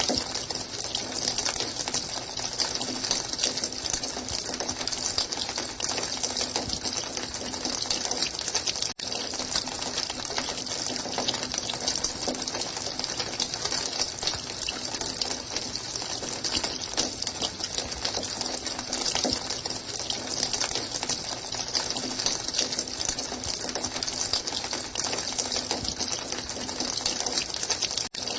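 Running water, a steady continuous rush with a hissy, splashy top. It cuts out for an instant twice, about nine seconds in and near the end.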